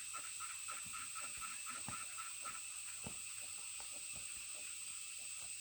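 A steady high drone of insects, with a frog calling in a quick run of short notes, several a second, that stops about halfway through. Light scattered taps sound throughout.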